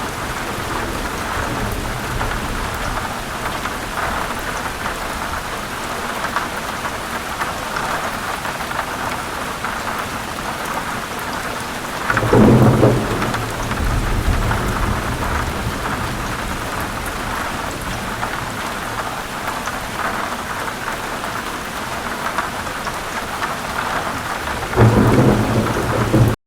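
Heavy rain falling steadily. Thunder rumbles twice, once about halfway through and again near the end, each louder and deeper than the rain.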